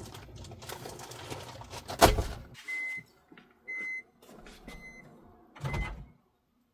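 Microwave oven beeping four times, short high single-pitched beeps about a second apart. Handling noise runs before them, a loud knock comes just before the first beep, and another bump comes with the last.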